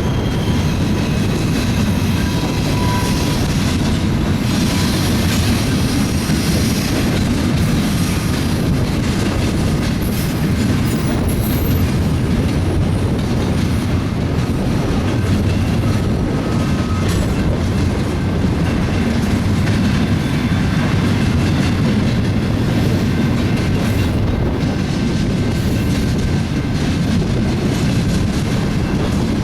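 BNSF double-stack container freight train rolling past steadily, a continuous heavy rumble of its cars on the rails. Brief thin squeals rise from the wheels now and then.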